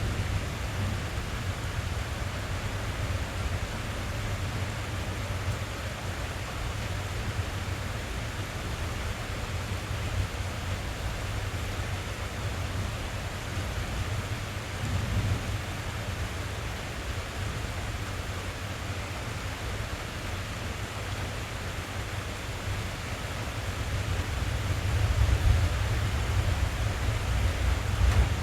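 Steady rain on a car's roof and windows, heard from inside the cabin, over a deep low rumble of thunder that swells near the end.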